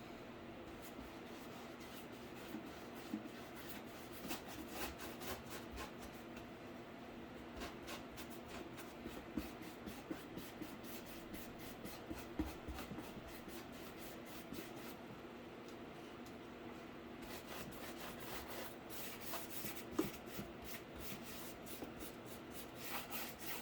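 Paint being stroked onto a cardboard case: quick, irregular scratchy rubbing strokes over a steady low hum.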